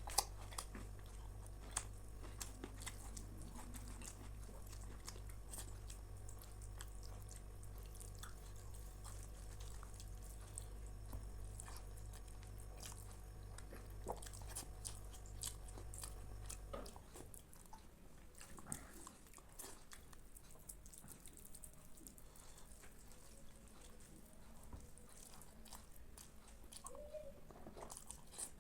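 Close-miked chewing and mouth sounds of someone eating rice with dal, palak paneer, eggplant fry and mashed potato, with many small wet clicks and smacks. A low steady hum underneath stops a little past halfway through.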